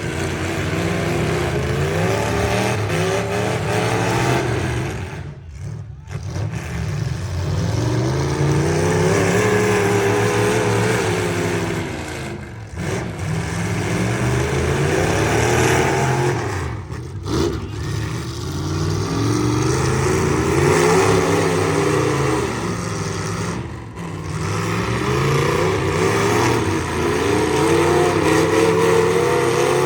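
V8 engines of full-size demolition derby pickup trucks revving up and down over and over, the engine note rising and falling in repeated swells. The sound drops out briefly a few times.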